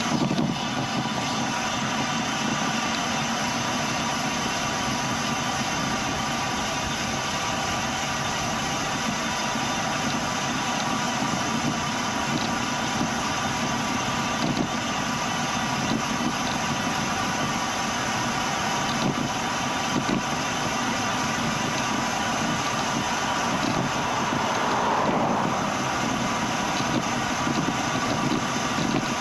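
Steady riding noise of a bicycle on a paved road, picked up by the bike-mounted action camera: tyres rolling and the drivetrain whirring, with a brief swell about 25 seconds in.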